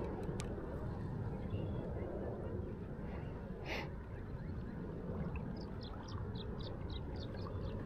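A low, steady outdoor rumble with a brief hiss a little before four seconds in. From about halfway through, a small bird chirps in a quick series of short high notes, about four or five a second.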